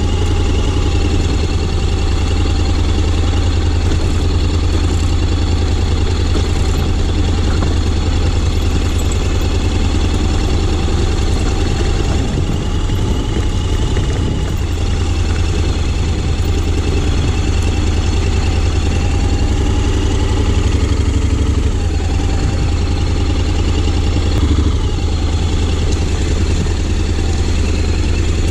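Honda X-ADV 750's parallel-twin engine running steadily at low revs, with small rises and falls in pitch.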